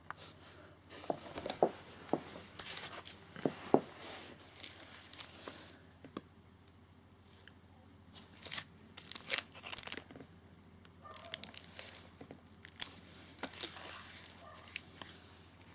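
Packaging being handled: irregular crinkling and rustling with sharp clicks and knocks, in clusters with short pauses.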